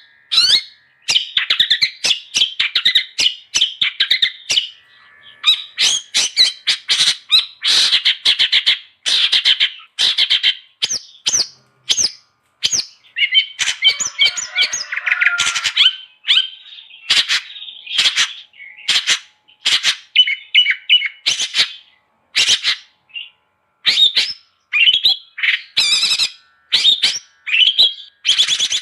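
Long-tailed shrike (cendet) singing: fast runs of short sharp notes and scratchy chatter in phrases a few seconds long, with short pauses between them.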